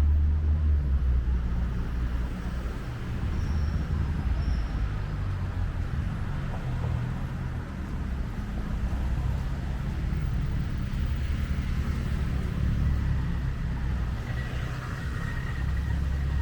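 Steady road traffic rumble from cars and buses passing on a busy city road, with a faint high whine near the end.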